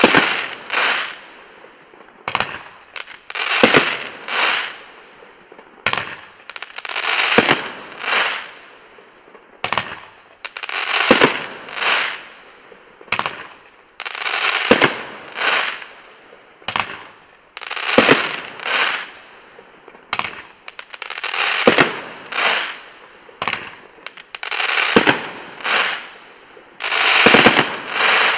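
Winda 'Make America Great Again' 500 gram firework cake firing its shots in turn, about one every one to two seconds, each launch thump followed by a loud, fading burst of hiss and crackle in the air.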